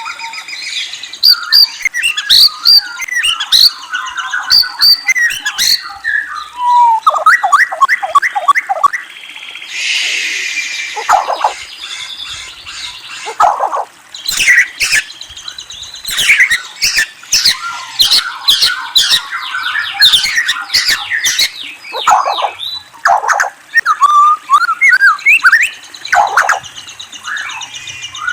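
A murai songbird (Copsychus robin) singing a long, varied song of loud whistled phrases and trills, with a quick run of repeated rising notes and a harsh rasping note about ten seconds in.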